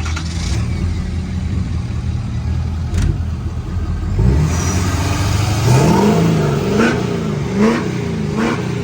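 Car engine idling, then revved in a series of quick blips about halfway in, its pitch rising and falling with each one.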